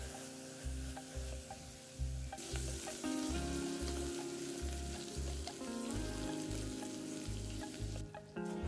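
Dried anchovies sizzling in oil in a stainless steel pot while a wooden spatula stirs them, with scattered light clicks of the spatula. Background music plays underneath.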